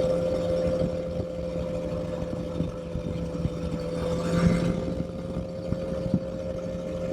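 Motorcycle engine running at a steady, nearly unchanging pitch while cruising, with wind buffeting the microphone. There is a brief louder rush about four and a half seconds in.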